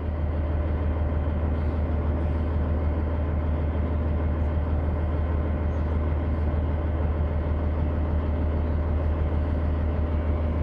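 Kenworth W900 semi truck's diesel engine and road noise droning steadily inside the cab while under way, with a strong low hum.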